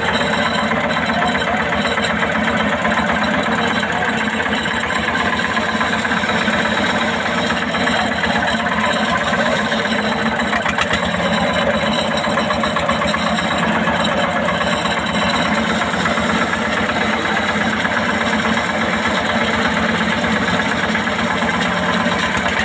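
Fishing boat's engine running steadily at a constant, even pace.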